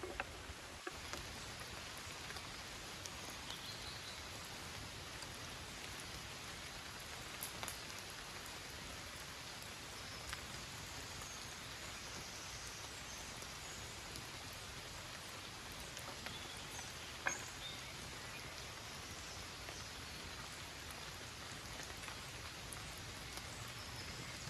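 Steady rain falling, with a few sharper single drips or taps now and then, the clearest about 17 seconds in.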